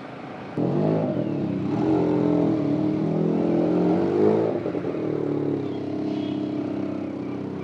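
A motorcycle engine running under way, its pitch rising and falling with the throttle. It starts suddenly about half a second in, is loudest for the first few seconds, then eases off.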